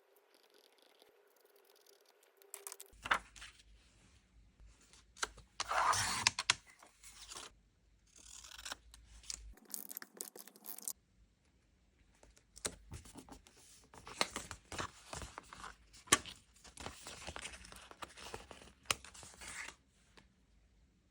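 Close-up handling of journal-decorating stationery: paper and stickers being torn, peeled and rustled, with sharp clicks and taps in between. It starts about three seconds in and comes in irregular bursts, loudest about six seconds in.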